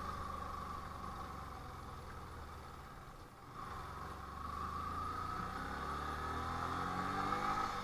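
Motorcycle engine running on the move. The sound dips about three seconds in, then the engine note rises slowly.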